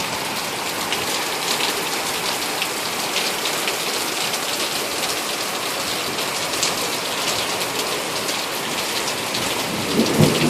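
Heavy rain pouring down steadily in a summer cloudburst, a dense hiss of drops pattering on surfaces.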